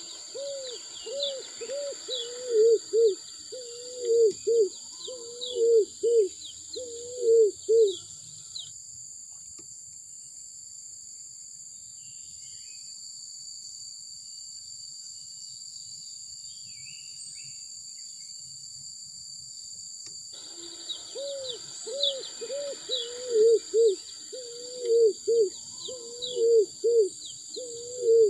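A bird calls in two bouts of about eight seconds each, the second starting about twenty seconds in. Each bout is a fast run of low, looping whistled notes, over a steady high-pitched buzz of insects.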